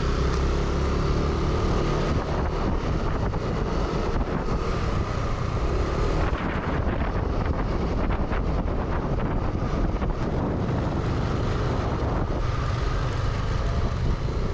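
Motorbike running on the move, with wind buffeting the microphone: a steady, dense rumble throughout.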